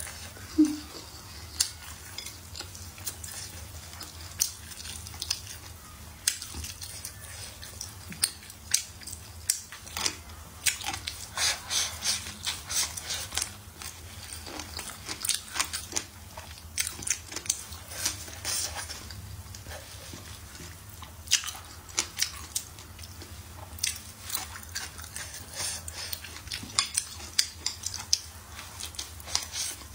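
Close-miked eating: chewing and biting with many short wet mouth clicks, with wooden chopsticks picking at and tapping a plate of braised beans, cured pig's trotter and green peppers. A low steady hum sits underneath.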